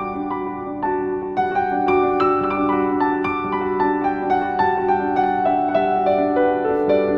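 Background piano music: soft notes struck one after another over held lower notes.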